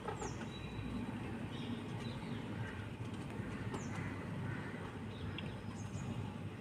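A few faint, short high chirps from a bird, each falling in pitch, over a low steady background rumble.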